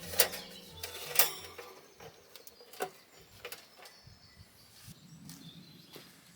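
Scattered sharp clicks and knocks, the loudest about a second in, as the last held notes of background music fade out in the first second and a half.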